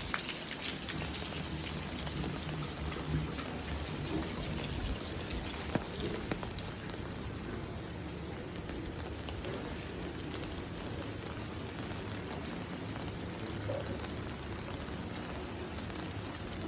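Steady rain falling, with now and then a sharper tick of a drop.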